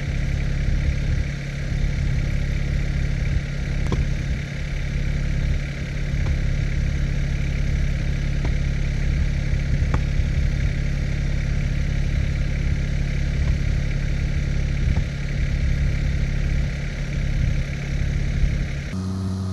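Kymron XH20D mini-excavator's engine running steadily while it digs, with a few faint knocks scattered through.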